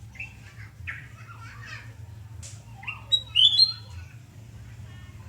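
Kutilang emas bulbul singing: a few short rising chirps, then a louder phrase of whistled notes about three seconds in. A steady low hum lies underneath.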